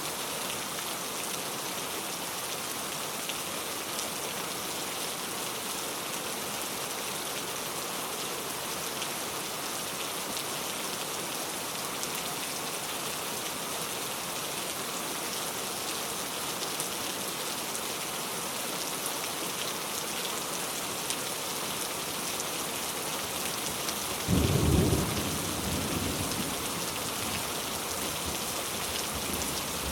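Steady rain falling, with a roll of thunder breaking in suddenly near the end and rumbling away over a couple of seconds.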